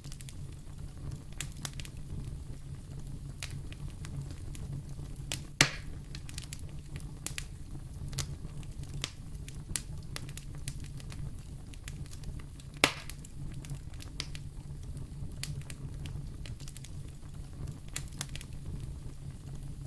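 Fire in a fireplace crackling: many small crackles over a steady low rumble, with two louder pops, about six seconds in and about thirteen seconds in.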